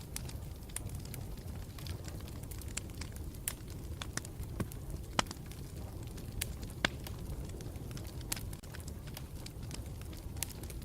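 Campfire burning with a steady low rumble and irregular sharp crackles and pops, a couple of them louder than the rest about five and seven seconds in.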